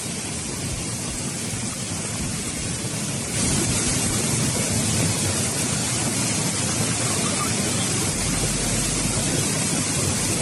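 Steady rushing noise of a typhoon's wind and heavy rain, becoming louder about three and a half seconds in.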